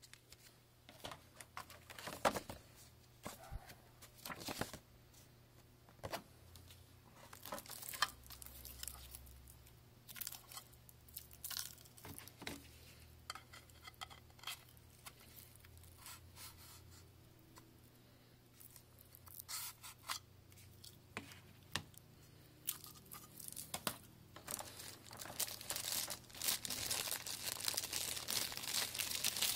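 Packaging being handled and opened by hand: irregular rustling and clicks, growing busier and louder in the last few seconds.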